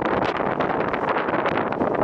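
Strong wind buffeting the microphone in uneven gusts, over a steady rush of noise.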